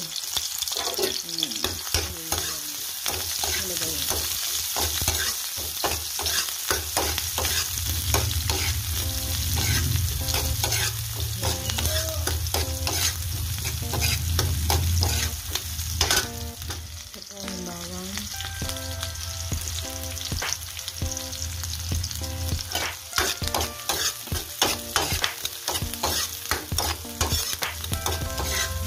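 Chopped onion sizzling in hot oil in a wok, stirred and turned with a spatula that scrapes and clicks against the pan again and again.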